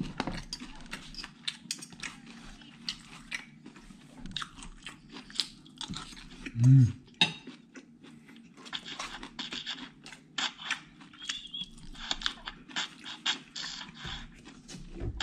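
Close-up chewing and crunching of a mouthful of satay and pecel, with irregular clicks of spoon and fork against the plate. A short hummed 'mm' about seven seconds in.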